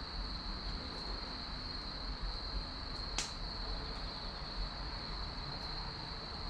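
Wood fire burning in a fire stand, with faint ticks and one sharp pop of the firewood about three seconds in, over a steady high-pitched tone.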